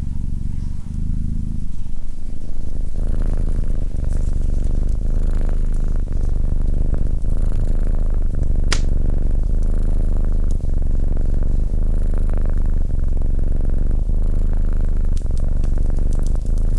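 Domestic cat purring close up: a loud, steady, low rumble. Fire crackle pops over it, with one sharp pop about nine seconds in and a few smaller ones near the end.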